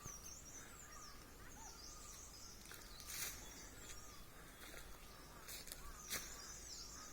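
Faint birdsong: a small bird sings high, warbling phrases, repeated about three times, over quiet outdoor ambience, with a few soft clicks and a rustle.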